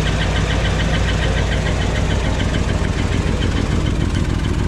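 Truck engine idling steadily with a fast, even ticking clatter over its low rumble; the ticking fades somewhat about halfway through.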